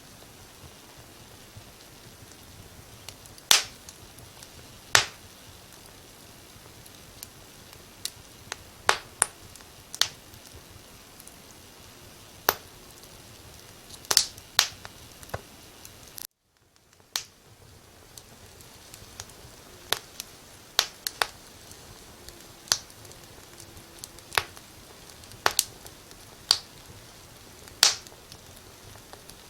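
Wood fire crackling: irregular sharp pops and snaps, some in quick pairs, over a soft steady hiss. About halfway through, the hiss cuts out abruptly for a moment and fades back in, like the splice of a looped recording.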